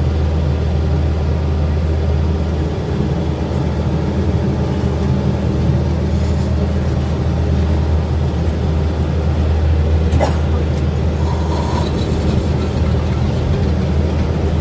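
Miniature train's engine running with a steady low drone as the train rolls along, with a brief click about ten seconds in.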